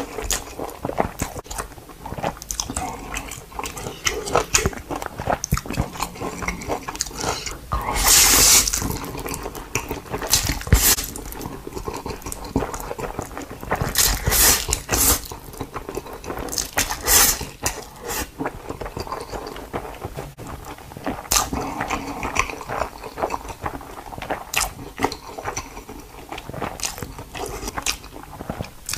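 A panda chewing and crunching its food: a steady run of wet bites and crisp crunches, with louder crunching bursts about eight, fourteen and seventeen seconds in.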